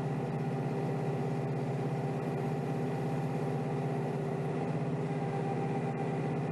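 Kioti DK5320SE tractor's diesel engine running at a steady speed, heard from inside the enclosed cab as an even hum with a hiss over it.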